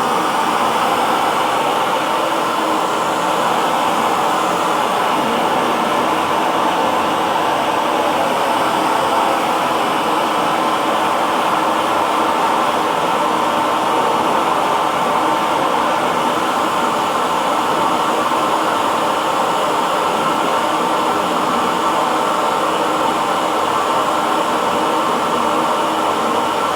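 Handheld hair dryer running steadily: an even, unbroken rush of blown air with a faint motor hum.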